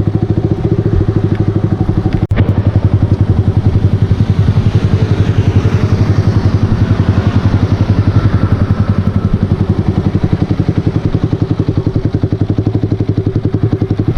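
Yamaha R15 V3's 155 cc single-cylinder engine idling through an aftermarket Akrapovic exhaust: a loud, steady, even beat. The sound cuts out for a moment about two seconds in.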